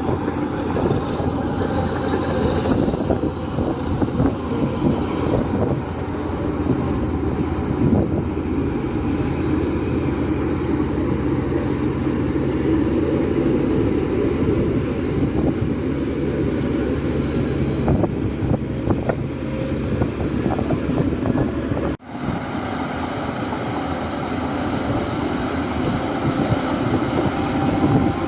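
Shantui D17P bulldozer's diesel engine running steadily under working load. It cuts out abruptly for a moment about three-quarters of the way through, then carries on.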